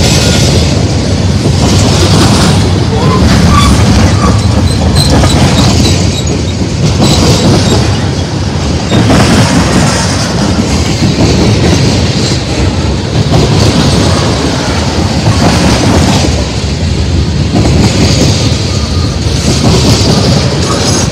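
Freight train tank cars rolling past close by: steel wheels on rail rumbling and clacking, swelling and fading every couple of seconds, with faint high wheel squeal now and then.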